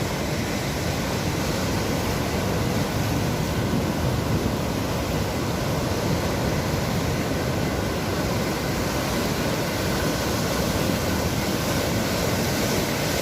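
Sea surf breaking and washing on the shore, a steady, even rush of noise.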